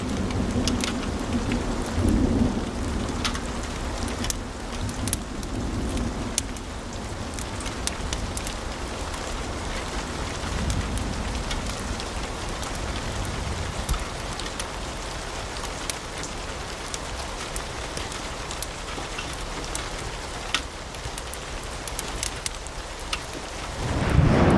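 Wood fire crackling in a fireplace: a steady low rumble of flames with frequent sharp pops and snaps. The rumble is stronger in the first few seconds, and the fire grows louder and fuller near the end.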